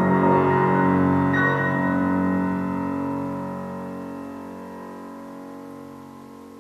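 Piano chords with no voice: a chord struck about a second and a half in rings on and fades away steadily, like the closing chords of a song's piano accompaniment.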